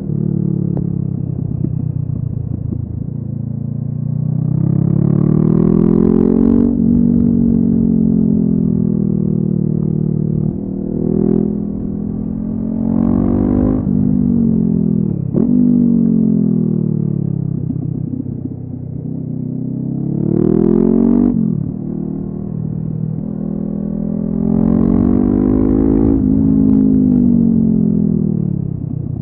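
Honda CB500F parallel-twin engine through a LeoVince aftermarket exhaust, ridden hard. It climbs in pitch under throttle and drops sharply at each gear change, several times over, then winds down as the throttle is eased near the end.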